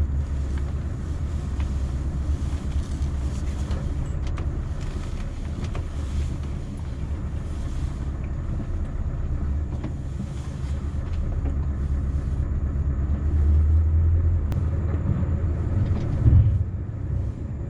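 Scania V8 truck engine running as the truck drives on, a steady low drone that swells louder a couple of times toward the end.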